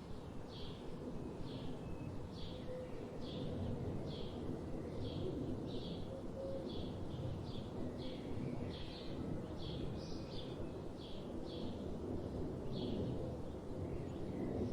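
A bird repeating short, high chip notes about twice a second, over a steady low rush of background noise.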